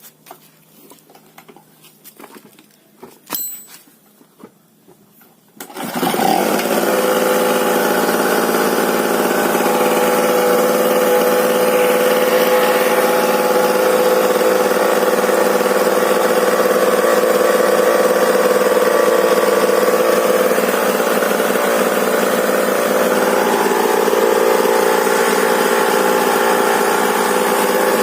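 Small two-stroke generator engine. After a few faint clicks and knocks it starts about six seconds in, then runs steadily at an even speed.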